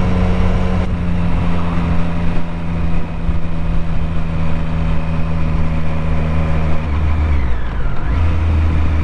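Triumph Street Triple 765's three-cylinder engine running steadily under way. About seven seconds in, the engine note falls as the bike slows, then settles at a new steady note.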